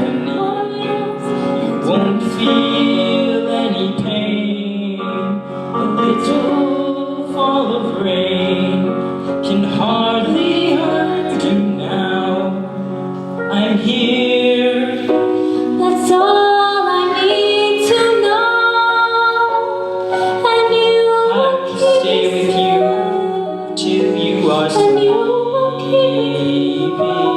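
Sung music: a female voice singing a slow ballad with accompaniment.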